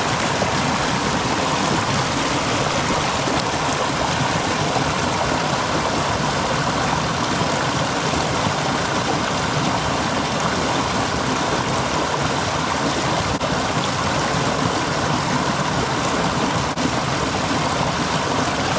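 Stream water flowing over rocks in a steady rush.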